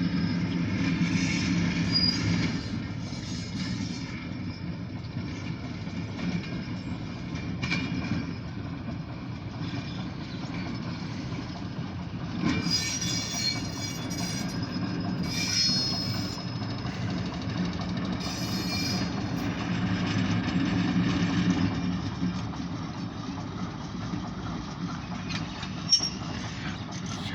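Diesel locomotives running light, with no cars, and a steady low engine rumble. Short high-pitched wheel squeals come in several times between about halfway through and two-thirds of the way in.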